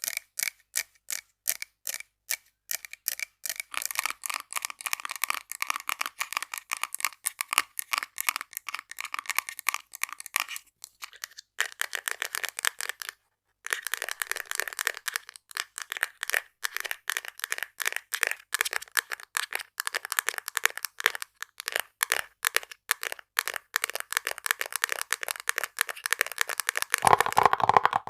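Rapid ASMR tapping on small objects, many quick taps a second, with a brief pause about halfway through. Near the end the taps move to a different, lower-sounding object.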